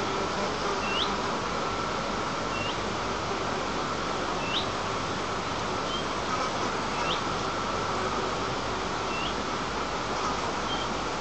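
A bird repeating a short, rising chirp every second or two over a steady background hiss.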